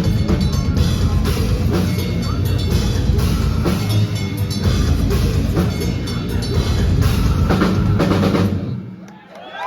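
Metal band playing live, the drums and bass loud and pounding. The song stops about nine seconds in, and the crowd starts cheering.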